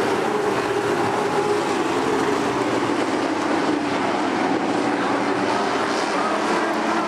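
Race trucks' engines running on track, a steady continuous engine noise whose pitch shifts slightly as they go by.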